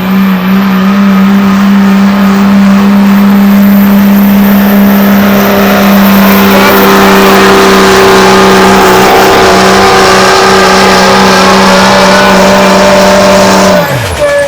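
Pulling truck's engine held at full throttle through a pull, dragging the weight sled down the track as one steady, loud drone. Near the end the throttle comes off and the engine's pitch drops fast as it winds down.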